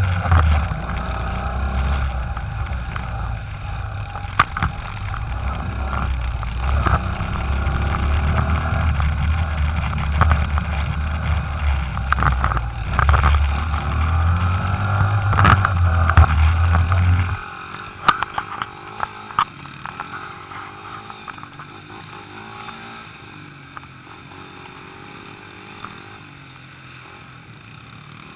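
Pit bike engines running as the bikes ride round, with a heavy low rumble. About two-thirds of the way through the rumble cuts off suddenly and the engine sound drops away, fading to a fainter, more distant running.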